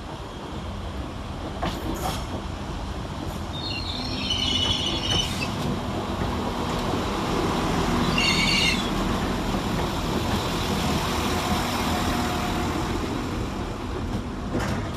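Northern Class 195 diesel multiple unit pulling into the platform, its engine and wheels making a steady rumble that grows louder toward the middle. Two brief high squeals come from the wheels or brakes, about four and eight seconds in.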